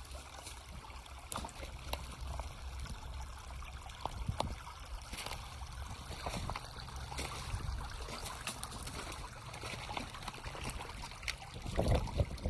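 Shallow creek water trickling, over a low rumble and scattered sharp clicks. Louder, irregular low thumps and rustling come in near the end.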